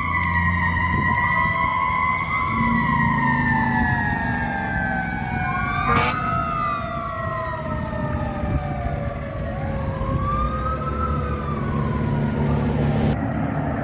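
Fire truck sirens on a passing response: a siren tone sliding slowly downward in pitch through the whole stretch, like a mechanical siren winding down, while a second siren swoops up and down twice, over the low rumble of the trucks' diesel engines. A brief sharp click about six seconds in.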